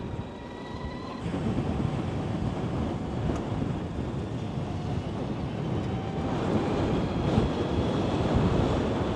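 Electric motorcycle riding over a rough gravel road: tyre and suspension rumble mixed with wind buffeting the microphone, getting louder about a second in. A faint high electric-motor whine is heard in the first second.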